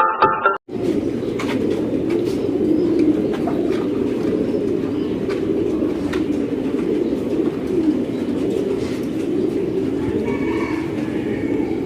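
A flock of domestic pigeons cooing together in a loft: a dense, continuous, overlapping cooing, with scattered light clicks.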